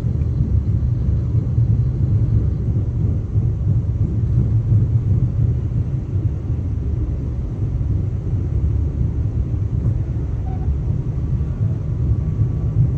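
Steady low rumble of a KTM passenger train running, heard from inside the carriage as it rolls into a station.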